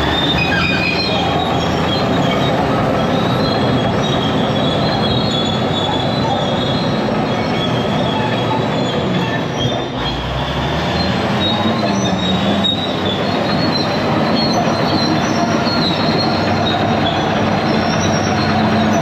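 IH Dresser TD25G crawler dozer on the move: its diesel engine running under load while the steel tracks squeal and clank. The engine note dips briefly about halfway through, then climbs again.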